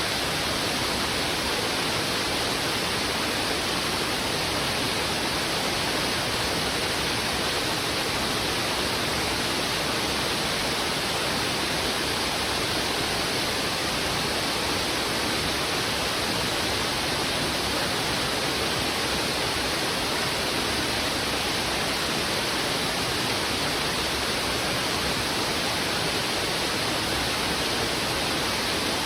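River in heavy flow rushing over rocks, a steady, unchanging rush of water.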